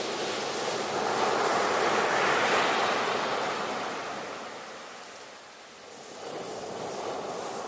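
Ocean surf: a wave swells and breaks about two seconds in, its rushing wash fades over the next few seconds, and the next wave begins to build near the end.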